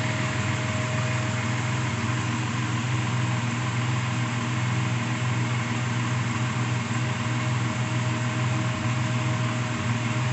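1998 Chevrolet S10 pickup's engine idling steadily, an even drone that holds the same pitch throughout.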